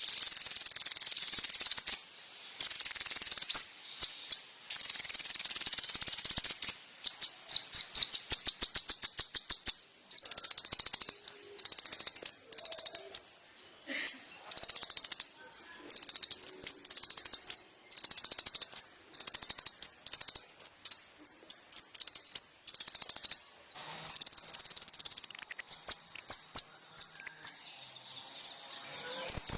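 Konin (kolibri ninja) sunbird song: fast, high-pitched trills and chirps in repeated phrases of a second or two, separated by brief pauses.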